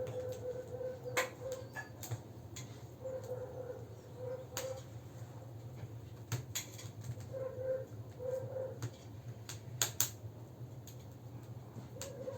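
Campfire crackling with scattered sharp pops, over a steady low rumble. A short, wavering tone comes and goes about six times.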